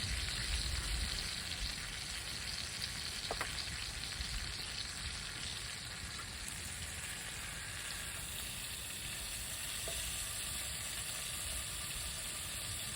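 Chicken frying in hot oil, a steady sizzle with a few faint pops.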